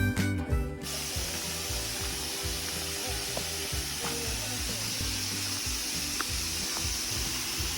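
Background music stops under a second in, then the steady, even rush of flowing stream water.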